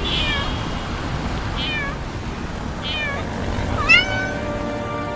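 A cat meowing four times, each call short and falling in pitch, the loudest call coming near the end, over a steady low rumble.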